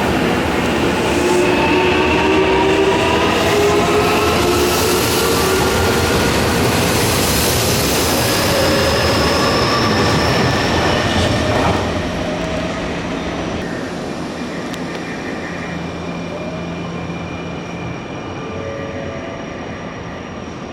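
Nankai electric train running along the platform: loud wheel-on-rail noise with several whining tones that shift in pitch, then the sound drops about twelve seconds in and slowly fades as the train moves away.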